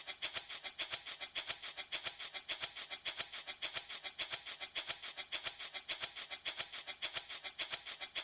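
Handmade baby rattle shaken steadily in a fast, even rhythm, about six to seven shakes a second, each a bright, hissy rattle of beads.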